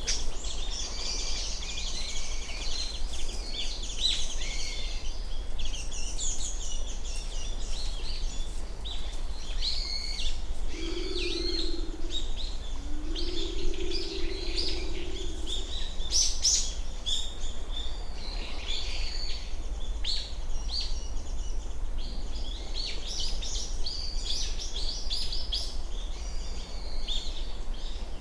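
Japanese wood pigeon giving two low purring "gururu" calls about ten seconds in, the second longer than the first. Many high chirps of small birds run throughout.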